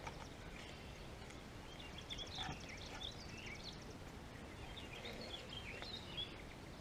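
Faint outdoor ambience with small birds chirping now and then, and a brief fast ticking about two seconds in.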